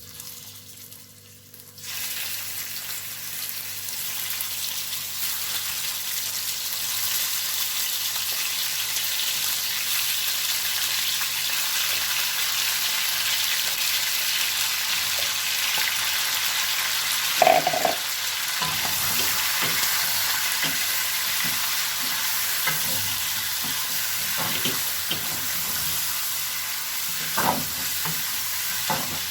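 Marinated chicken pieces frying in hot oil with ginger-garlic paste, a loud steady sizzle that starts about two seconds in as the chicken hits the pan. A sharp knock comes about halfway through and a lighter one near the end.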